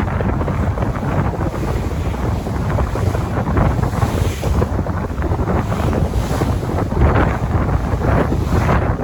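Sea waves washing in, with wind buffeting the microphone: a continuous low rumble with brighter surges of water every few seconds.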